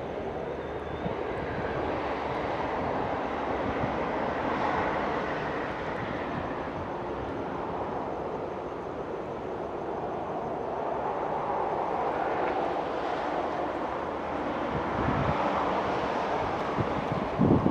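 Q-train set A757/A758 running along the line as it approaches and passes: a steady rumble and rush of wheels on track. It swells slightly a few seconds in and again near the end.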